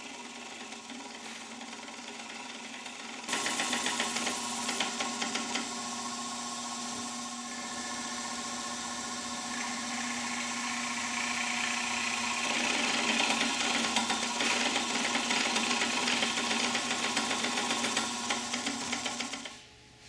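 Electric drill boring into the wooden chair back: the motor runs steadily with a fast chatter of the bit cutting. It starts up sharply about three seconds in, after a quieter hum, and cuts off suddenly just before the end.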